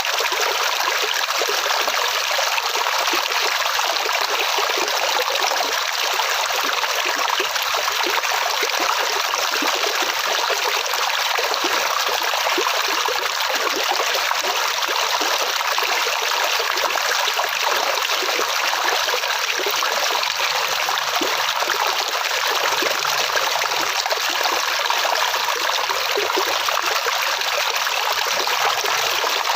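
Water flowing steadily, a stream or small cascade, with an even rushing hiss that does not change.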